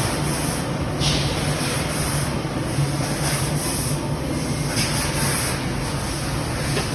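CNC fiber laser cutting machine running: a steady hiss, with the higher part swelling and easing every second or so, over a low steady hum.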